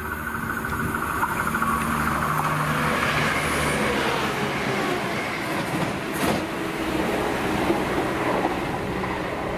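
A train running past on the track, a steady mix of rail and motor noise that swells a little after the start, with a single sharp knock about six seconds in.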